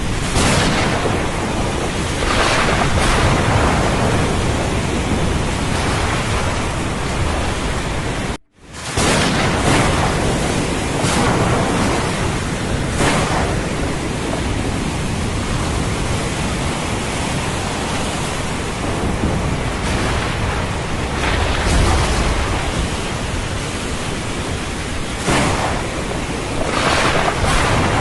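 Thunderstorm over the sea: dense, steady rain and surf with swells of low rolling thunder. The sound cuts out completely for a split second about eight and a half seconds in, then resumes at full level.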